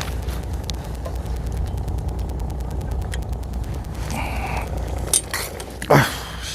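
Steady low hum of a fishing boat's engine, with handling noises from fishing tackle: faint clicks and rustling while a tangled line is sorted out. Two sharp knocks come near the end, the louder one just before it ends.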